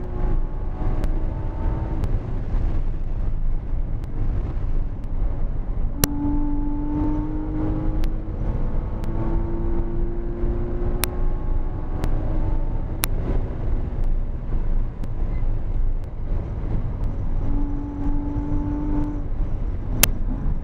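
Porsche Cayman GT4 flat-six engine at speed on track, its note climbing in pitch, breaking off and picking up again several times, over a heavy low rumble of road and wind noise. A few sharp clicks cut in.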